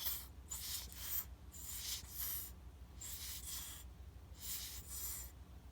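Hands rubbing and smoothing fabric down onto a glued notebook cover: four rubbing strokes, each about a second long.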